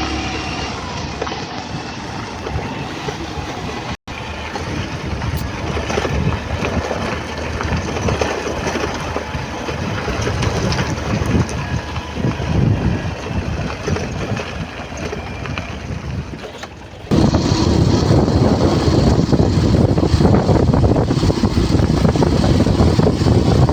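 Wind buffeting the microphone over a steady low rumble, with a brief dropout about four seconds in and a sudden louder stretch from about seventeen seconds on.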